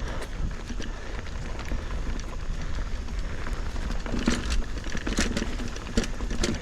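Mountain bike riding through a rock garden: a steady rumble of tyres rolling over the trail, with scattered clatters and knocks as the bike jolts over rocks.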